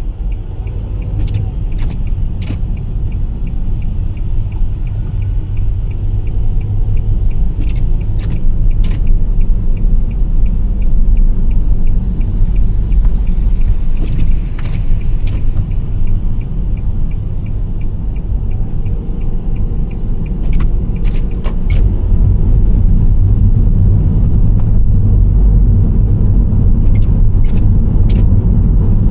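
Road and engine noise of a Nissan Serena C25 minivan driving. A steady low rumble grows louder about three-quarters of the way through. Short sharp clicks come in groups of three, about every six seconds.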